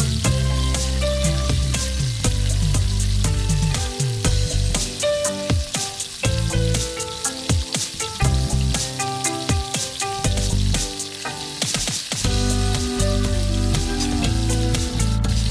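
Chicken curry frying and sizzling in a pan, with a dense crackle and some stirring, over background music.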